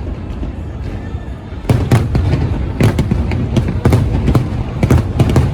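Aerial fireworks display: a brief lull with low rumbling, then from just under two seconds in a rapid, dense volley of sharp bangs and cracks over continuous low booming.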